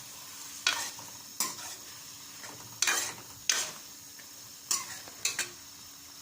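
Chicken gizzards and livers frying with onion and tomato in a karahi: a steady sizzle, with a spoon scraping and knocking against the pan about seven times as the mixture is stirred. The water added to the pan is cooking off.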